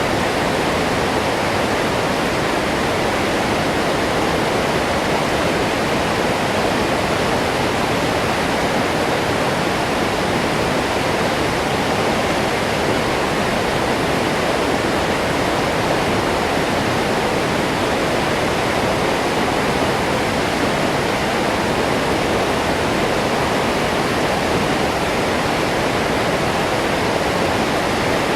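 Waterfall: a steady, dense rush of falling water, unbroken and even throughout.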